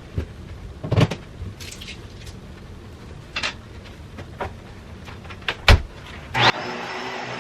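A series of separate knocks and clunks of household objects being handled and set down, then near the end a steady mechanical hum with a faint whine sets in.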